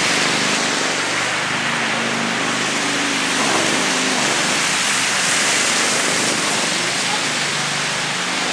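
Steady rushing noise of blizzard wind outdoors, with faint voices underneath.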